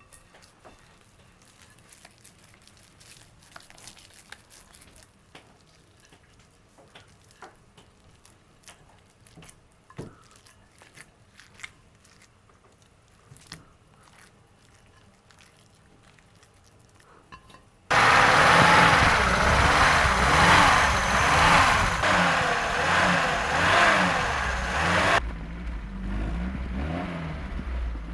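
Faint scattered clicks, then suddenly a car engine revving, its pitch rising and falling again and again, settling to lower, quieter revs near the end.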